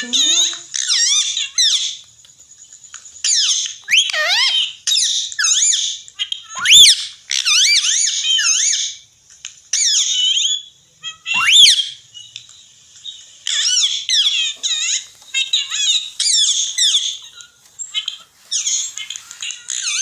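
Pet parrot chattering: a long run of high, warbling whistles and squawks in short bursts, with two louder, sharp calls about seven and eleven seconds in.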